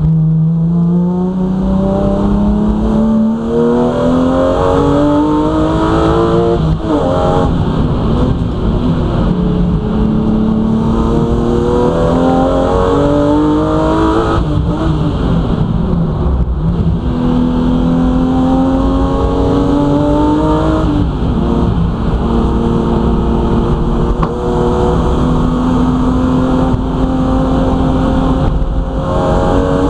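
BMW M3 race car's engine heard from inside the cabin, accelerating hard, its pitch climbing and then dropping at each upshift, four times. Road and tyre noise runs underneath.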